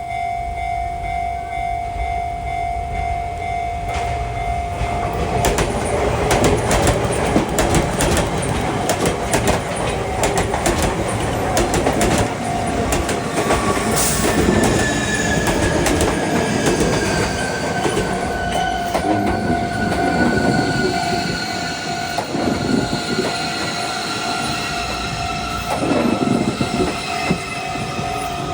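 A Sotetsu-line electric commuter train passes close by, its wheels clicking rapidly over the rail joints. Its motors give a whine that falls slowly in pitch through the second half. A level-crossing alarm rings a steady tone at the start and again in the last several seconds.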